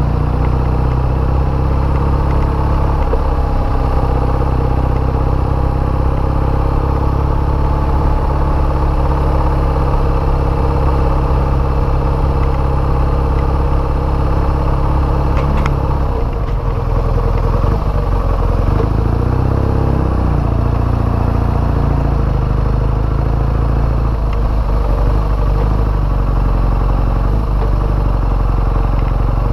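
BMW motorcycle engine running steadily while the bike is ridden along a rough dirt forest track. There is a single sharp click about halfway through, and the engine note shifts a second or two later.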